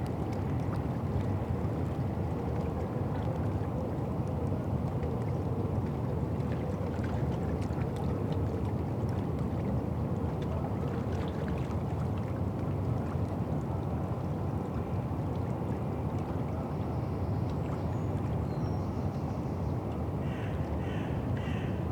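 River Thames ambience: a steady low rumble of water and distant boat traffic, with a faint steady hum in the first half and a few short high chirps near the end.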